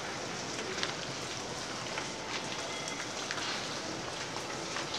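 Light rain falling outdoors: a steady hiss with faint scattered drop ticks.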